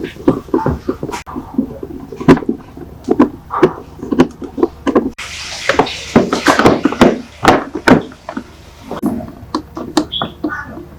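Irregular knocks and thuds, many sharp and loud, with some talking in between.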